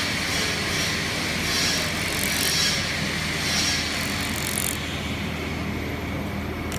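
YAG laser welding machine running and welding: a steady machine noise with a short hissy burst about once a second, which stops about four and a half seconds in.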